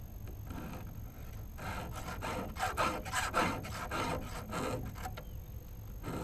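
Hand file rasping across a chainsaw chain's cutters in a series of quick back-and-forth strokes, about three a second, which stop about a second before the end.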